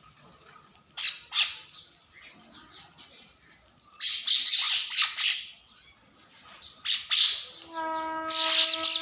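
Birds squawking in short, harsh bursts, with a dense run of calls near the end.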